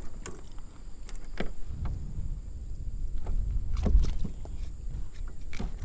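Kayak sounds: scattered knocks and clicks on the hull, the loudest about four seconds in, over a low rumble of wind on the microphone.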